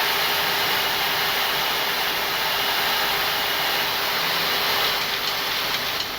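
Steady rushing air noise on the flight deck of a Boeing 737-800 in flight, with a faint steady hum underneath.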